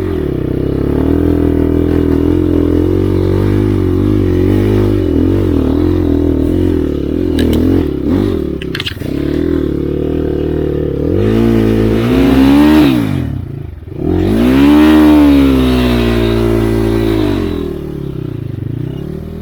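Enduro motorcycle engine running close by, blipped and revved with its pitch rising and falling, then surging in two hard revs past the middle before settling back.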